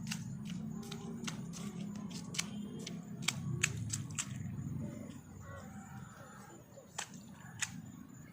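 Irregular sharp ticks over a low rumble: raindrops striking the recording phone in the rain. The clicks come thickly for about five seconds, then only a few scattered ones.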